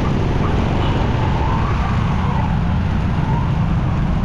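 Steady low rumble of a motorcycle riding through city traffic, engine and wind noise on the microphone. A faint wailing siren rises and falls in the middle of it.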